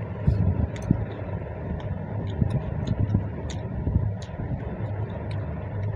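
Someone chewing segments of sweet lime (mosambi), with scattered wet mouth clicks and soft jaw thumps over a steady low hum.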